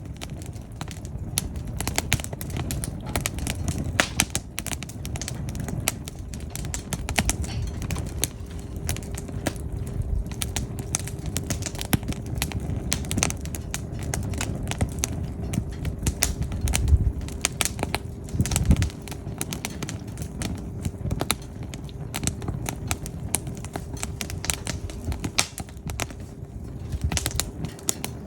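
Wood fire crackling, with dense irregular pops and snaps over the low rumble of the flames. A faint steady tone comes in about six seconds in.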